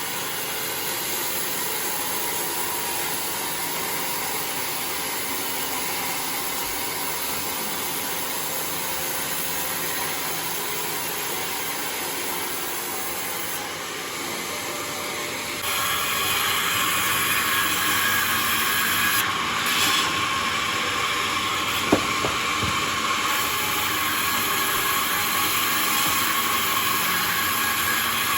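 Homemade sawmill running with a steady mechanical noise; about halfway through it turns louder and brighter, and a single sharp knock comes a few seconds later.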